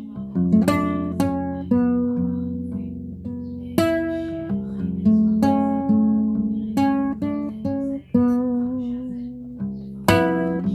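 Guitar being played: notes and chords plucked one after another, each ringing out and fading before the next.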